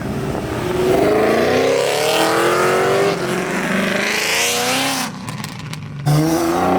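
A car accelerating hard past, its engine and exhaust note climbing in pitch over about two seconds. The sound dips briefly about five seconds in, then the engine note comes back strongly near the end.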